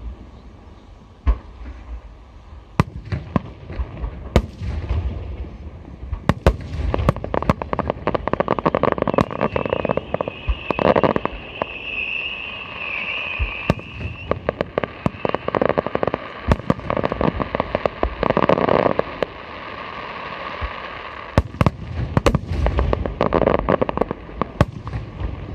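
Aerial fireworks shells bursting in rapid succession, sharp bangs over dense crackling. A high wavering tone rises over them for a few seconds about ten seconds in.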